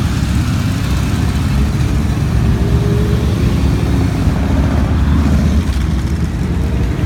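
Motorcycles riding past in a steady stream, their engines making a continuous low, heavy sound.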